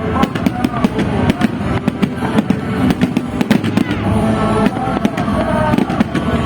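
Fireworks display: many rapid shell bursts and crackling reports, one after another throughout, with music playing alongside.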